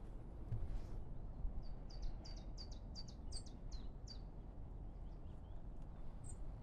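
A small songbird singing a quick run of about ten short, high notes, each sliding downward, lasting a couple of seconds, with a few fainter high notes after it. A steady low rumble runs underneath.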